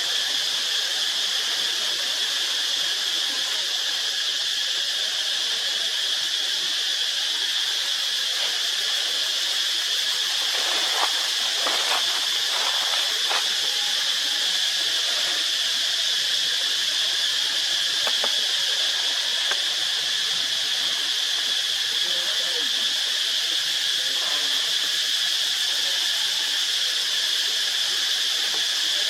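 Steady, unbroken high-pitched shrill of an insect chorus. A few faint short sounds break in about eleven to thirteen seconds in.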